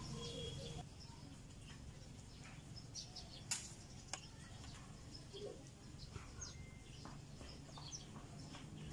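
Faint birds chirping in the background, with two sharp clicks a little over a third of the way through.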